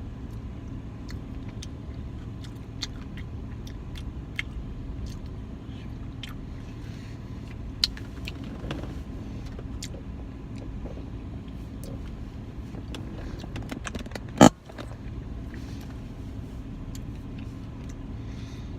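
Steady low hum of an idling car heard inside the cabin, with scattered small clicks and taps and one loud knock about fourteen seconds in.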